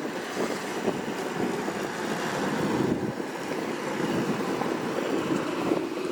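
Portable heater running with a steady rushing roar, blowing hot air at ice-covered trees to thaw them.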